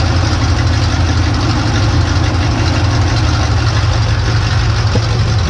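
Demolition derby car's engine idling steadily, heard from inside the car's cab.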